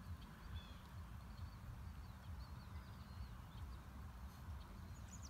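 Faint birdsong outdoors: many short, high chirps with little pitch flicks, over a steady low rumble.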